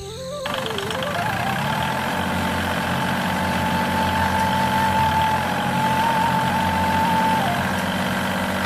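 Motor running with a steady whine over a low hum; the whine climbs in pitch over about the first second, then holds, dipping briefly near the end.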